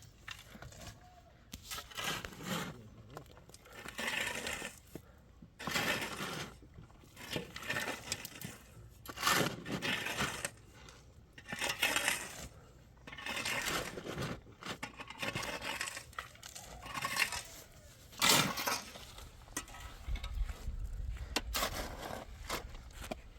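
Hard objects repeatedly clinking, knocking and scraping, one sharp stroke every second or two at an irregular pace.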